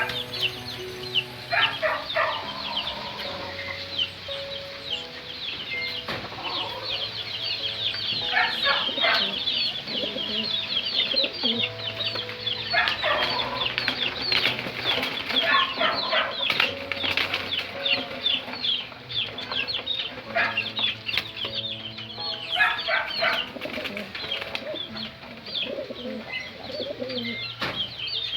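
Busy loft bird sounds: a dense stream of high chirping, repeated bursts of chicken-like clucking and wing flapping, over faint background music.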